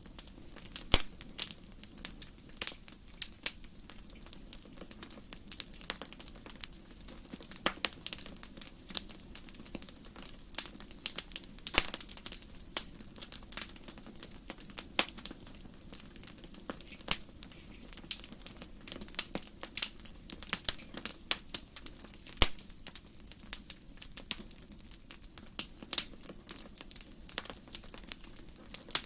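Wood fire burning in a fireplace, crackling with frequent irregular sharp pops over a low, steady rush of flame.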